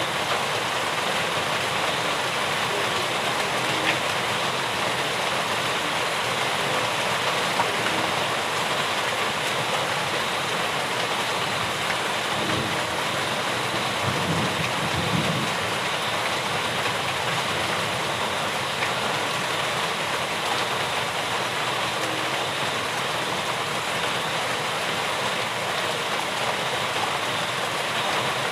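Steady rain falling, an even hiss with a few faint drop ticks and a soft low rumble about halfway through.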